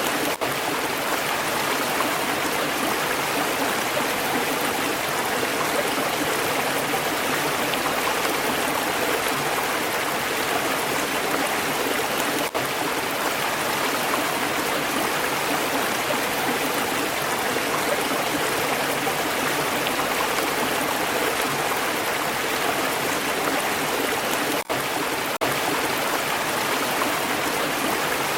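Stream water flowing steadily over rocks, an even, unbroken rush with no changes in level. It cuts out for an instant a few times, about halfway through and twice near the end.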